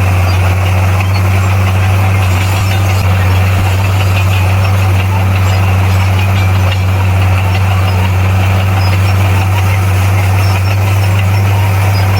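Bulldozer's diesel engine running steadily at an even speed, a constant deep drone.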